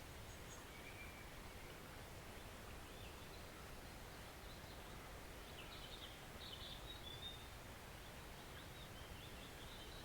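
Faint, steady rush of a small woodland stream, with brief high bird chirps about a second in, around six to seven seconds in, and again near the end.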